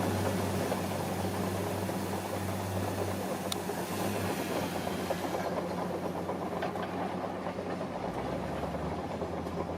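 Komatsu D41P bulldozer's diesel engine running steadily, easing off about halfway through, with its low hum dropping in pitch near the end.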